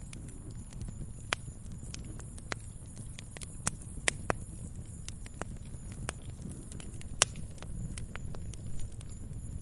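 Wood fire burning in a fireplace: a steady low rumble of flames with irregular sharp crackles and pops from the burning logs, the loudest about four and seven seconds in.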